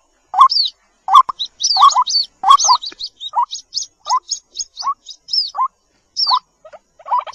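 White-breasted waterhen chicks calling: a rapid series of short, rising cheeps, several a second, thinning out after about three seconds and picking up again near the end.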